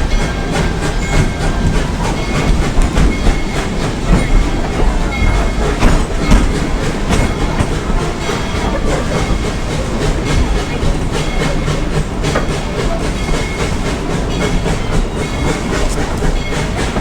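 Steam excursion train's coaches rolling along the track, heard from on board: a steady rumble with wheels clicking over the rail joints.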